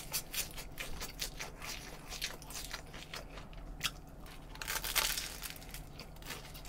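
Close-up eating sounds: lettuce and a crusty ciabatta sandwich with chicken being chewed. Many short, crisp crunches run throughout, with a louder burst of crunching about five seconds in as the sandwich is bitten.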